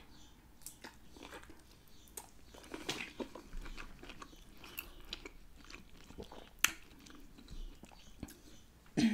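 Close-miked eating sounds: chewing and finger sucking with many small wet clicks, one sharper click about two-thirds of the way through and a louder burst just before the end.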